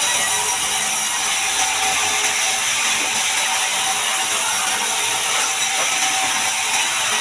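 Sawmill band saw cutting a large mahogany log: a steady, loud, hissing mechanical noise with a few faint steady tones, unchanging throughout.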